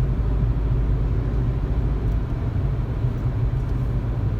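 Steady low rumble of road and engine noise from a car being driven, heard from inside the moving car.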